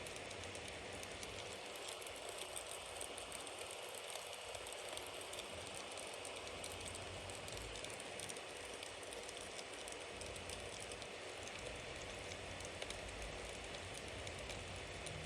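Bonfire burning with a steady hiss and many small crackling pops, one a little sharper near the end.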